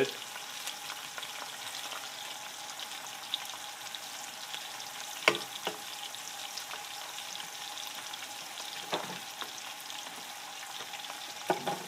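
Chopped ham and butter frying in a non-stick skillet, a steady sizzle with crackles: the butter is hot and bubbling well, the stage just before the flour goes in for the roux. Two sharp clicks stand out, about five and nine seconds in.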